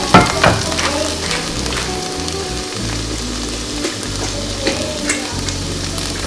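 Onions sautéing in a skillet, a steady sizzle. A few sharp knocks and scrapes of a wooden spatula against the pan come in the first half-second.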